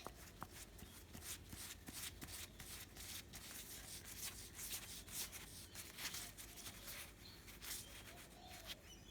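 Faint, irregular scraping and rubbing as a tap's tape-wrapped thread is screwed by hand into a plastic pipe joiner.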